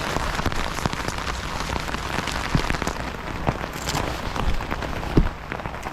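Freezing rain falling steadily, a dense patter of small sharp ticks of drops and ice pellets hitting surfaces, with a dull knock about five seconds in.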